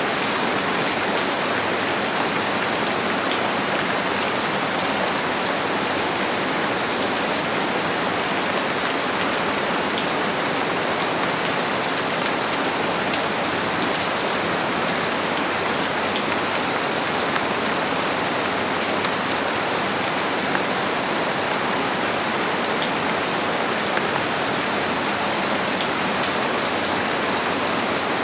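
Steady rain falling, an even hiss of many drops with faint scattered drips and no thunder.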